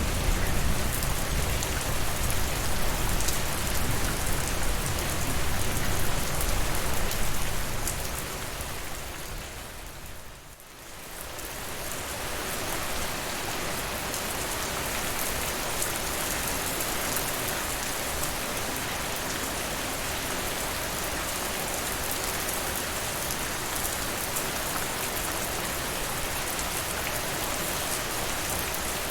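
Steady rain falling, a dense even hiss. About eight seconds in it fades down, nearly dropping out around ten seconds, then swells back up and runs on evenly with less low rumble than in the first part.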